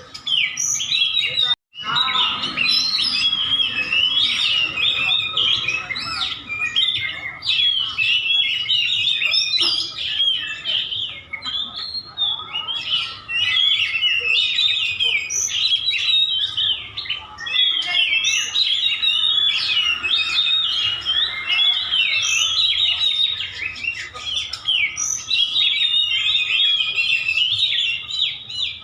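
White-breasted Oriental magpie-robin (kacer dada putih) song: rapid, varied whistled phrases packed densely and without pause. It breaks off for an instant about a second and a half in.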